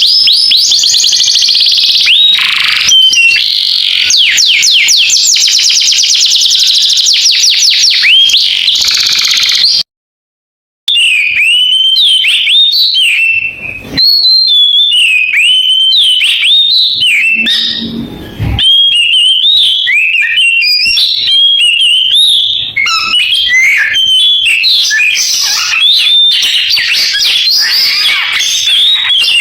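Oriental magpie-robin (kacer) singing a canary-style song: fast, high trills, then varied whistled phrases after it breaks off for about a second some ten seconds in.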